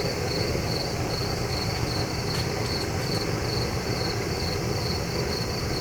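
Propane weed burner torch firing a raku kiln, burning with a steady low rush while the kiln is still heating up to temperature. Crickets chirp in a fast, even pulse over it.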